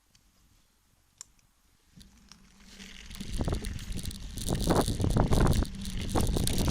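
Crunching and rattling of a descent over a dirt forest trail, starting about two seconds in and growing steadily louder, with wind buffeting the microphone toward the end.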